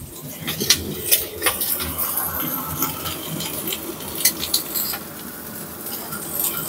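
Salmon steak frying in hot oil in a pan: a steady sizzle full of quick crackles and pops of spitting oil.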